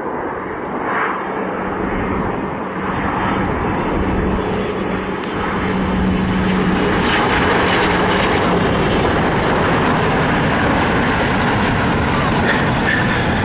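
Boeing 777X airliner landing, the noise of its twin GE9X turbofan engines filling the air. It grows louder about six seconds in and then holds steady, with a steady low hum under it.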